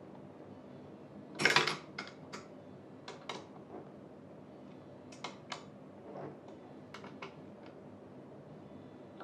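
Clicks and knocks of chair parts and hardware being handled during assembly: one louder clatter about a second and a half in, then scattered single clicks and taps.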